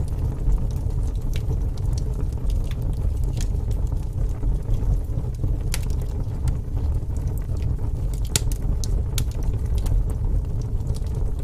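Wood fire burning in a fireplace: a steady low rumble with scattered sharp crackles and pops, several of them close together about eight to nine seconds in.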